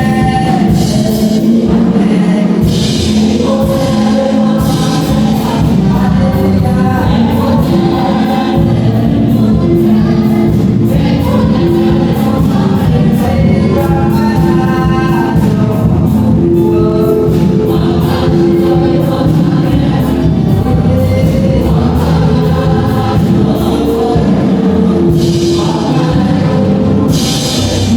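Gospel choir singing with instrumental accompaniment, sustained held notes and a steady beat.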